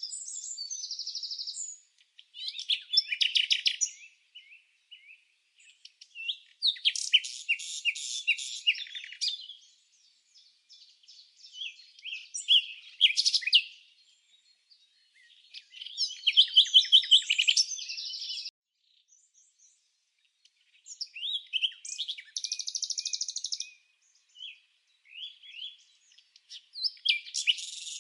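Songbird song: phrases of quick chirps, trills and buzzy notes lasting one to three seconds each, with short silent pauses between them.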